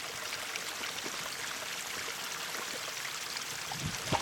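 Shallow creek water running and trickling steadily, with a brief low knock near the end.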